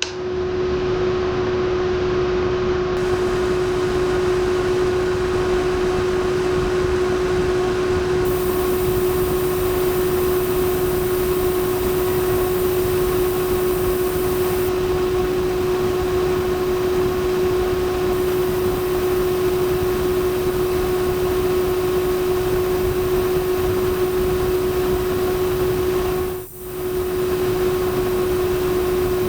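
Small electric fan of a homemade PVC-pipe air cooler running steadily, a constant whir with one steady hum tone. It breaks off for a moment near the end and then carries on.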